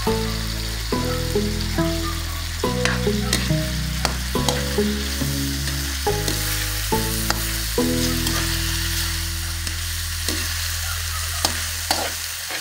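Pork with fermented black beans (tausi) and vegetables sizzling in a frying pan as a spatula stirs and scrapes them, with short scrapes and taps of the spatula against the pan. Background music with a bass line plays under it and stops near the end.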